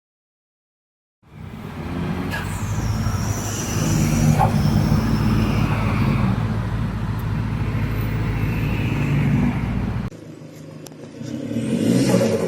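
Turbo diesel Hyundai Accent with a straight-pipe exhaust, its engine running with a steady low drone. About ten seconds in there is a cut to a quieter take, and the engine revs up near the end.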